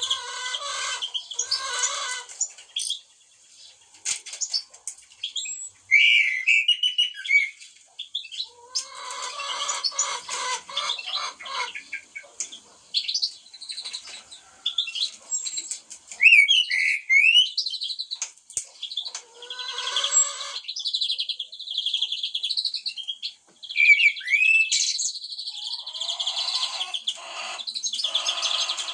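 Garden birds, with common blackbirds among them, singing and calling: short clear whistled notes and sliding phrases, broken about four times by bouts of rapid, harsh chattering.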